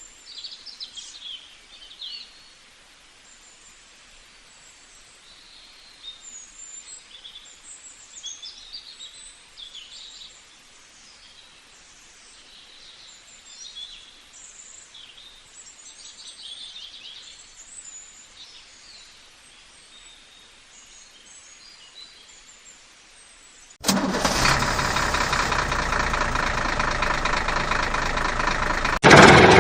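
Birds chirping faintly for most of the time. Near the end a loud, steady engine-like drone starts suddenly and steps up louder just before the end.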